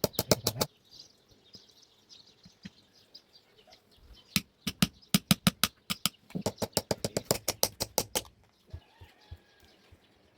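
Hand hammer striking a knife blade on an anvil in quick runs of blows, about six a second, with pauses between the runs.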